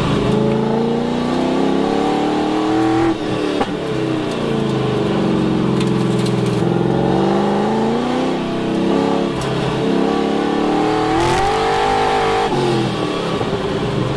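Car engine at high load through an autocross run, its pitch repeatedly falling and climbing as the driver lifts and gets back on the throttle through the course.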